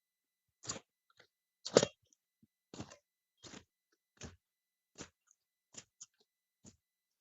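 Machete swings chopping through jungle weeds: a steady series of short, crunching strokes, about one every 0.7 seconds, with one much harder chop near two seconds in.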